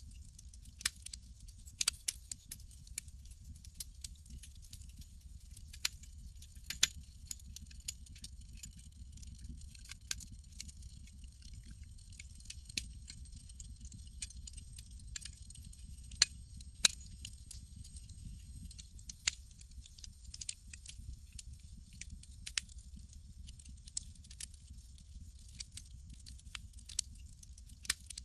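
Campfire crackling: irregular sharp pops and snaps over a steady low rumble and a soft hiss.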